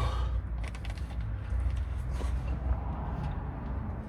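Short clicks and rattles of plastic cable ties being handled, in a cluster about half a second in and again around two seconds in, over a steady low rumble.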